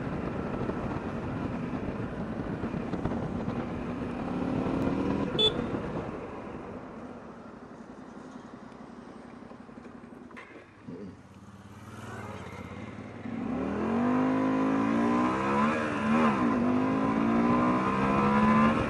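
Honda XL125V Varadero's 125 cc V-twin engine running as the bike rides, dropping to a low, quiet idle about halfway through as it stops. It then revs up again to pull away, its pitch climbing and falling with the throttle. A sharp click about five seconds in.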